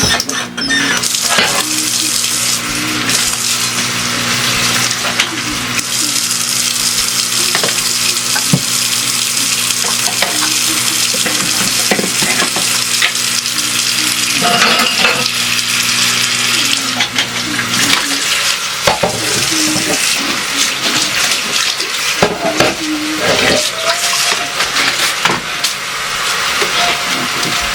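Water running in a kitchen sink with dishes and utensils clinking. A low steady hum underneath cuts off about two-thirds of the way through.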